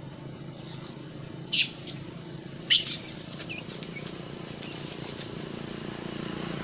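Monkeys fighting, shrieking: two short, sharp, high-pitched shrieks about a second apart, then a few fainter squeaks, over a steady low hum.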